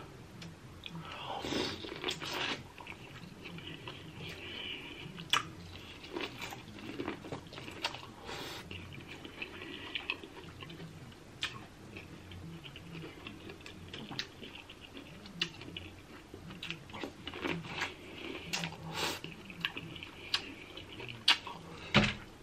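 Close-miked chewing and mouth sounds of someone eating crab, with sharp clicks and cracks every few seconds.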